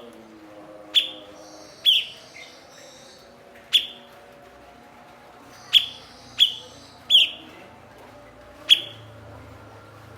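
Cucak cungkok bulbul giving short, sharp calls, each dropping quickly in pitch, about seven at uneven intervals, with a brief softer chatter after the second call.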